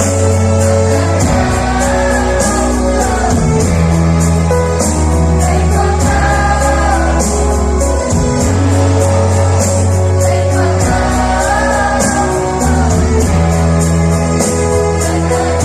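Choir song with a backing music track: held bass notes, a steady beat and a melodic line.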